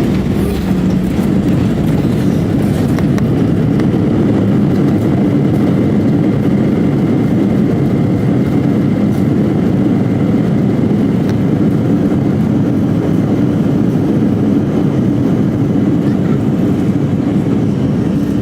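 Airbus A320 cabin noise: the jet engines and airflow as a steady low rumble heard from inside the cabin.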